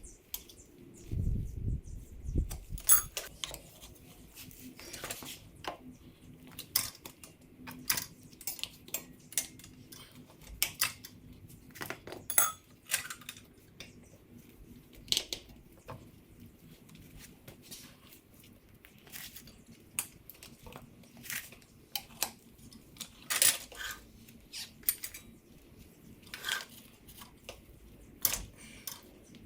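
Metal tire tools clinking and tapping against a dirt bike wheel rim as the tire is worked onto the rim, with scattered sharp metallic clicks, some ringing briefly, and a few low thumps about a second in.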